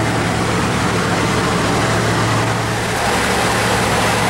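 A car engine idling with a steady low hum, over a constant wash of outdoor background noise.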